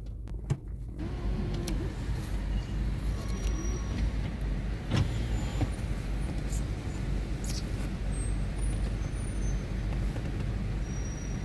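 A car's engine running, a steady low rumble heard from inside the cabin, with a few faint clicks.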